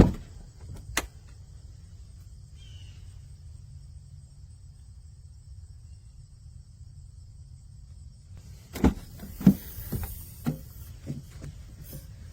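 Two sharp knocks, then a quiet stretch. Near the end comes a cluster of knocks and thumps with some rubbing, the sound of things being handled and pushed into place.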